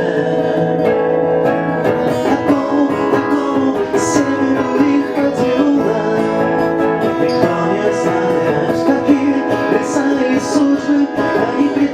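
Live instrumental music: an acoustic guitar strummed steadily, between the lines of the song.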